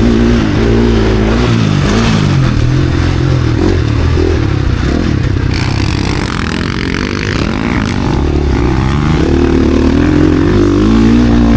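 KTM SX-F Factory Edition four-stroke single-cylinder motocross engine ridden hard, its revs rising and falling with the throttle and gear changes. The revs are high at first, fall off around the middle, then climb again near the end.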